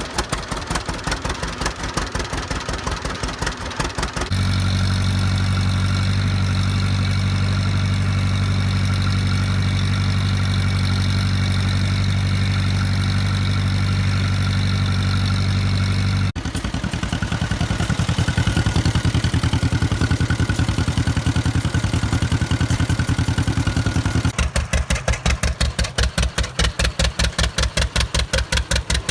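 Old tractor engine idling with slow, distinct firing beats. About four seconds in it speeds up to a steady, faster run. After a sudden break about sixteen seconds in it runs slower again, dropping back to a slow idle near the end.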